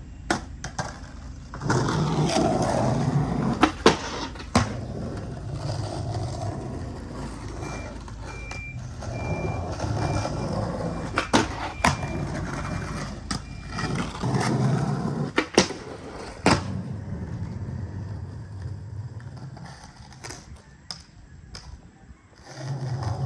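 Skateboard rolling on concrete, the rolling noise swelling and fading, with several sharp clacks of the board popping and landing. A series of short high beeps sounds in the middle.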